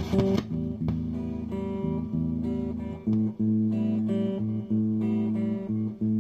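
Guitar played on the clean channel of a Hughes & Kettner GrandMeister 40 tube amp: sustained picked notes and chords, changing chord about three seconds in. A sharp click right at the start, the loudest moment, and another about a second in.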